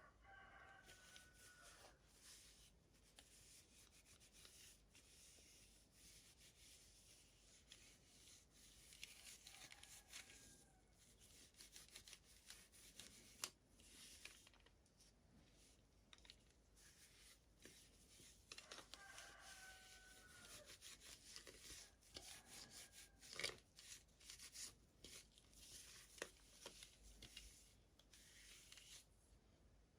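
Faint rustling, crinkling and tearing of toy packaging being handled and opened, with many small clicks and a couple of brief squeaks.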